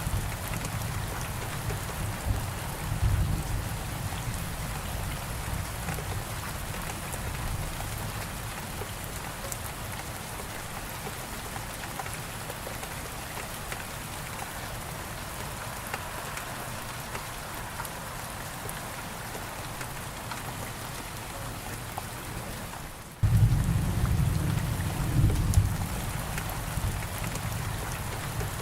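Steady heavy rain hissing, with deep rolling thunder rumbling underneath. The rumble is strong for the first few seconds and fades away. About 23 seconds in it cuts back in abruptly and loudly, at an audible splice in the recording.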